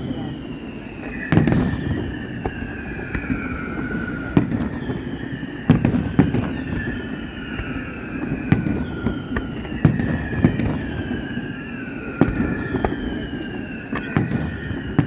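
Fireworks display: shells bursting in a ragged series of sharp bangs over a continuous low rumble, with a string of overlapping whistles that each fall in pitch over a second or two.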